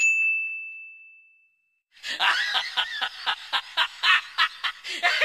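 A single bright ding that rings and fades away over about a second and a half. About two seconds in comes the 'lion laughing' meme sound: a fast, choppy run of laughter, about four bursts a second.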